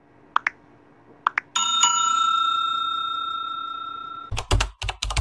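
Subscribe-animation sound effects: two quick double clicks, then a bell that rings out and slowly fades for nearly three seconds, followed by a quick run of loud thumps near the end.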